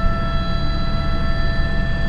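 Airbus H125 helicopter's turboshaft engine and rotor running steadily, heard from the cockpit: a constant low rumble under a high turbine whine.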